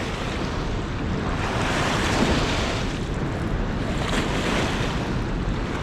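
Steady rush of fast water pouring through the river below a lock and dam spillway, with wind rumbling on the microphone.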